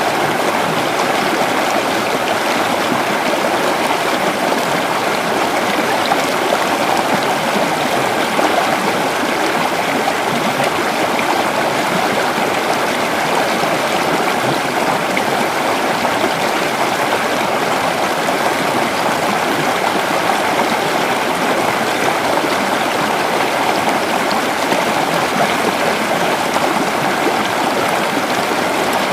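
A creek flowing over rocks: steady, loud, continuous rushing and burbling water.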